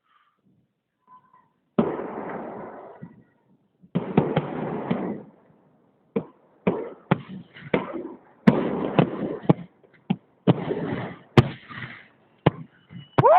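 Fireworks salute: shells bursting in a series of sharp bangs, each followed by a short noisy tail. The bursts begin about two seconds in and come thick and fast in the second half.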